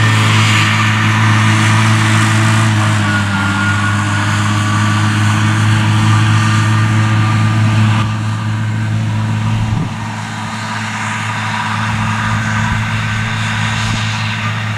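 Claas Arion 650 tractor's six-cylinder diesel running steadily under load while driving a Claas Disco disc mower through grass, with a steady low engine hum. The sound drops a step in loudness about 8 seconds in and again near 10 seconds.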